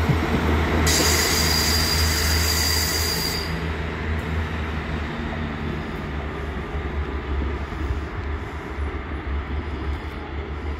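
A train moving through a station with a low rumble that fades steadily as it draws away, and a steady high wheel squeal for a couple of seconds near the start.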